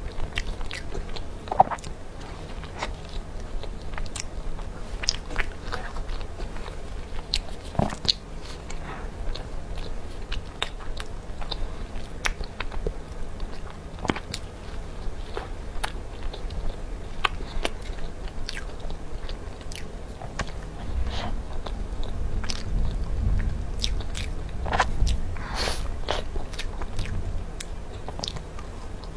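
Close-miked biting and chewing of soft matcha sponge cake with mousse and cream: irregular small mouth clicks scattered throughout over a low rumble, with a louder click near the end.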